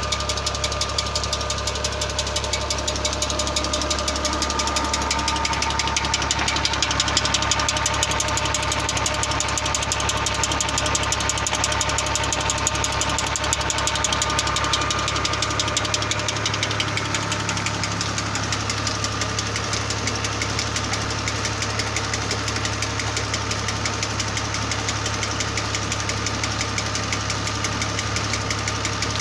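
New Holland Ghazi tractor's diesel engine running steadily with an even, rapid knocking rhythm while it drives a tubewell pump through a shaft.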